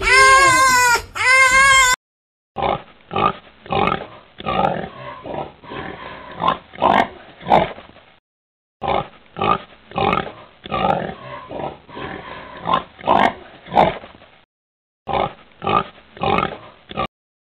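A domestic pig grunting over and over, about two grunts a second, in three runs with short pauses between them. It is preceded by a high, whining cry in the first two seconds.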